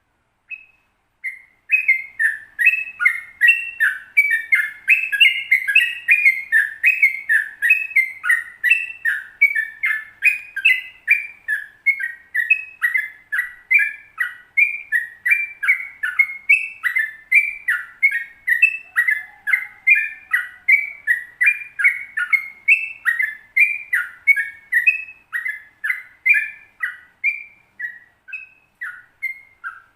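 Yellow-vented bulbul (trucukan) singing a long, unbroken 'ropel' run of quick, sliding chirped notes, about three a second, starting about a second in.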